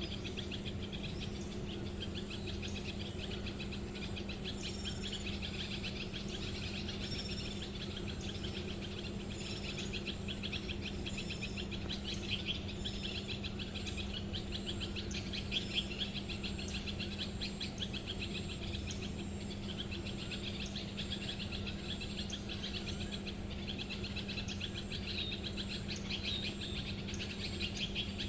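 Outdoor ambience of small birds chirping, a dense, rapid run of high chirps that goes on without a break, over a steady low hum.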